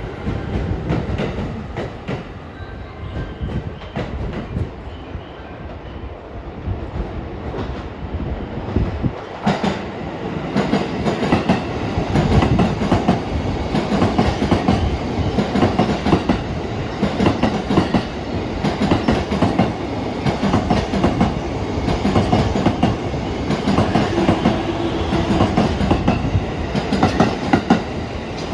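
A 15-car JR East E233-3000 and E231-1000 series electric multiple-unit train running through a station, its wheels clattering over the rail joints in a steady clickety-clack. The clatter grows louder about ten seconds in as the train comes close.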